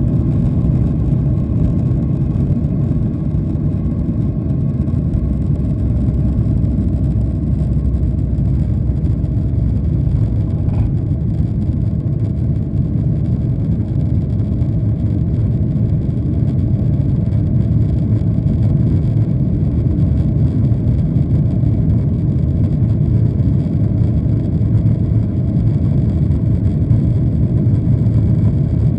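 Steady cabin rumble inside a Boeing 737-800, the sound of its CFM56 jet engines and airflow heard through the fuselage. It is loud and even throughout, mostly low-pitched, with no change in engine pitch.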